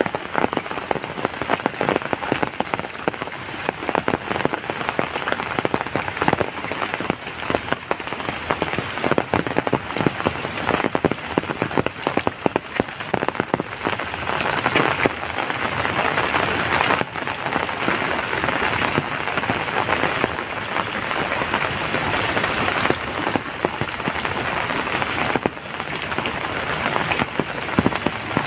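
Heavy rain falling steadily, a dense hiss thick with the patter of many drops striking surfaces; the downpour swells a little about halfway through.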